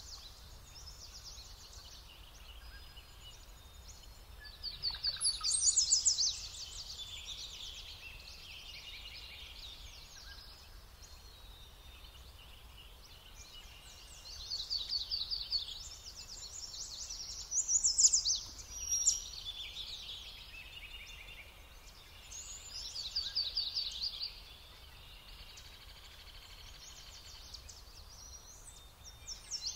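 A songbird singing: loud phrases of fast, high trills, each about one and a half to two seconds long, repeated every several seconds, with fainter bird calls between them.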